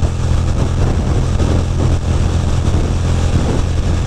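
Ducati Monster 620's air-cooled L-twin engine running steadily at highway cruising speed, about 70–75 mph, under a constant rush of wind noise.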